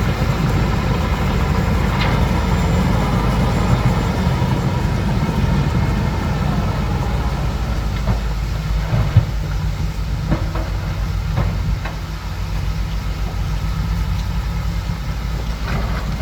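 Bulldozer's heavy diesel engine running steadily, a deep rumble with its tracks clattering and a few short metal clanks.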